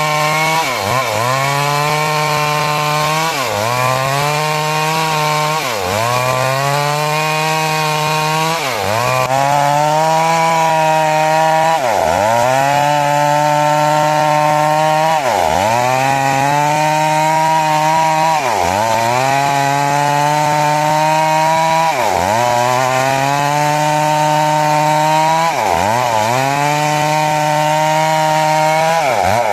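Chainsaw cutting timber into 6 cm square rafters. The engine runs at a steady high pitch that dips briefly and recovers about every three seconds.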